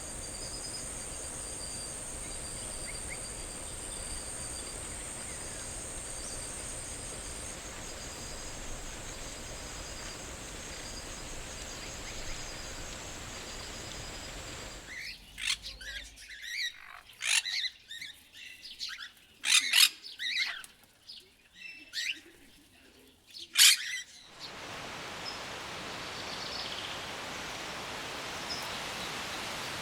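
Steady rain-like forest ambience with thin, steady high whines, broken off about halfway by some nine seconds of loud, sharp, repeated bird calls over a quiet background; the steady ambience then returns.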